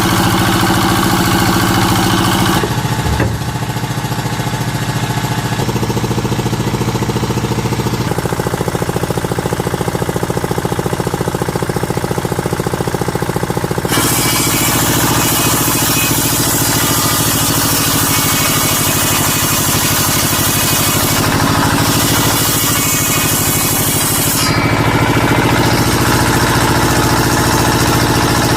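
A small engine running steadily at a low speed, its tone shifting abruptly a few times.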